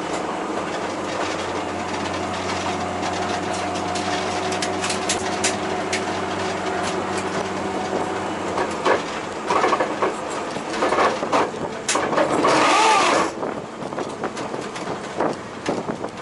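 Cabin sound of an R32 Nissan Skyline GTS-T track car at speed, its engine running at steady revs under load. From about nine seconds in come irregular knocks and rattles, then a loud harsh burst near thirteen seconds, after which the engine note drops quieter.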